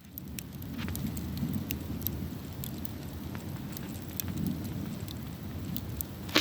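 Campfire burning: a steady low rumble of the flames with scattered sharp crackles and pops from the burning wood, and one louder pop at the very end.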